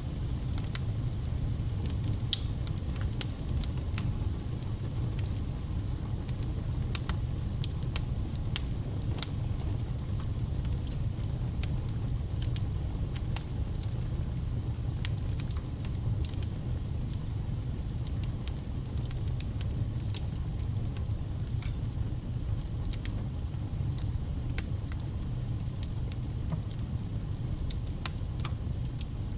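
Wood fire burning, with frequent irregular sharp crackles and pops from the burning logs over a steady low rumble of the flames.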